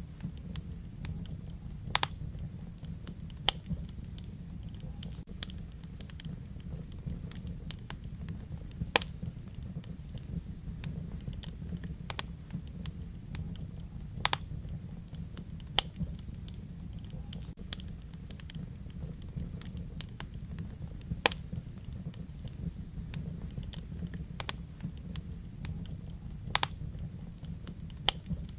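Wood fire crackling in a fireplace: sharp, irregular pops every second or few over a steady low rumble of the flames.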